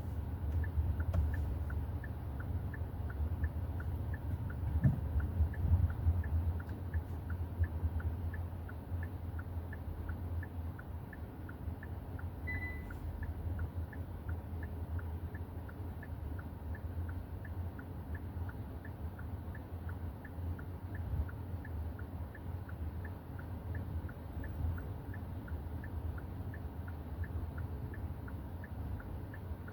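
Hyundai i30 N Line driving along, a steady low rumble of engine and road noise that is a little louder in the first ten seconds. A faint, even ticking of about two a second runs underneath, and a short high beep sounds once about halfway through.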